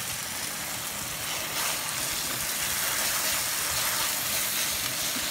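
Steak and onions sizzling in a stainless steel pan with a splash of wine, a steady hiss that grows a little louder about one and a half seconds in.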